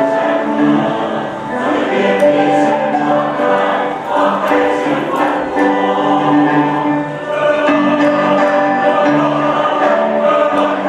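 Choir singing in several parts, with long held notes.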